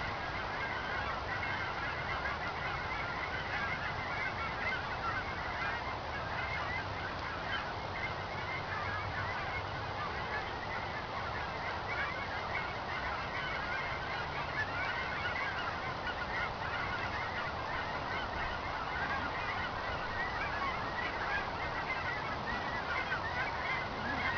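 A large flock of migrating birds calling continuously, many short calls overlapping with no break.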